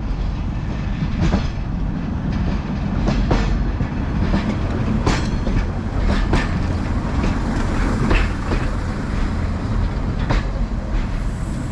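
Class 141 Pacer diesel railbus running along the line: a steady low rumble with sharp wheel clicks over the rail joints every second or two.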